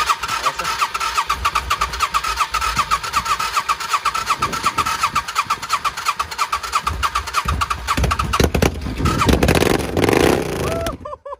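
Air-cooled V-twin motorcycle engine being cranked on its electric starter in a fast, even rhythm while starting fluid is sprayed into it, not yet running on its own. The cranking stops abruptly near the end.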